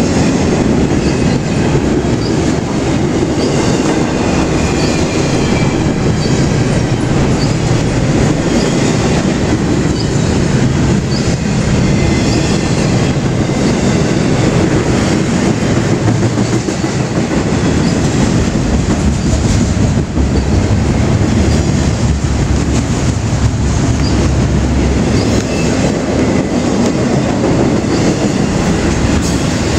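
Double-stack container train's well cars rolling past close by: a steady loud rumble and clatter of steel wheels on the rails, with short high wheel squeaks now and then.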